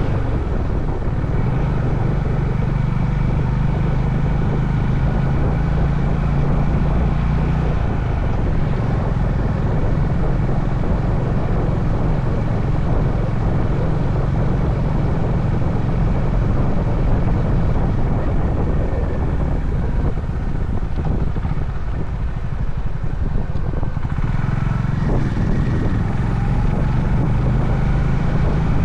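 Honda CB350 H'ness single-cylinder engine running under way, with wind and road noise on the helmet-mounted microphone. The engine note is strong at first, drops back about eight seconds in so the wind and road noise take over, and comes up again near the end.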